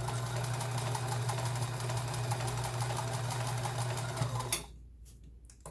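Kenmore sewing machine stitching a stretch-stitch pattern: a steady motor hum with a rapid, even run of needle strokes, which stops about four and a half seconds in.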